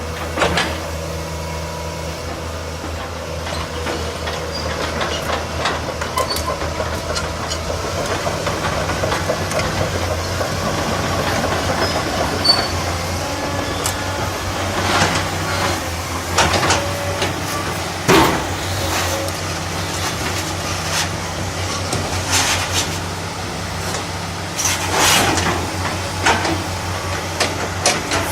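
Cat 320 excavator's diesel engine running steadily, with scattered metallic clanks and squeaks over it.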